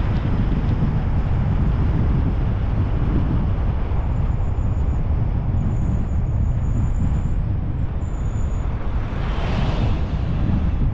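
Car driving along a road: a steady low rumble of engine, tyre and wind noise, with a brief louder whoosh about nine seconds in.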